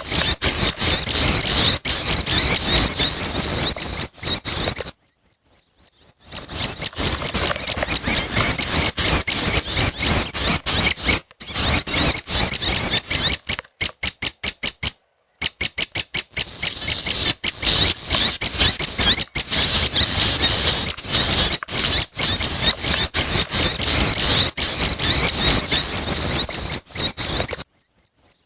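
Young prenjak (prinia) begging calls: a dense run of high, thin squeaky chirps. They break off briefly about five seconds in, turn into a choppy stutter of short pulses around the middle, and drop out just before the end.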